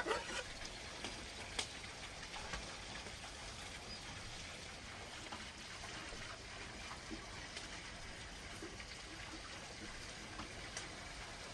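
Faint, steady running water, like a small stream, with a few light taps and clicks.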